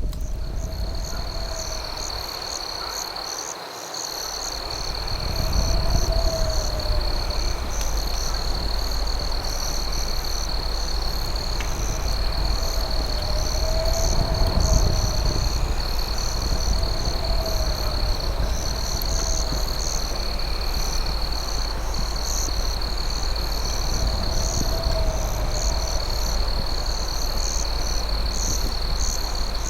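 Night chorus of crickets: a steady high trill with faster pulsing chirps above it, and a short lower call every two to three seconds. A low rumble runs underneath, briefly dropping away a few seconds in.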